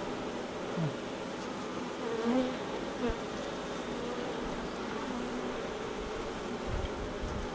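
A mass of honey bees buzzing in a steady hum, with single bees flying close past and their buzz swelling and sliding in pitch. A soft knock about three seconds in and a few low bumps near the end.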